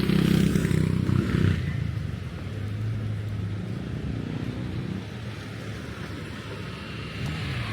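Road traffic: a motor vehicle's engine passes close by and is loudest in the first second and a half, then fades. A softer steady engine hum from other traffic follows, and another engine rises near the end.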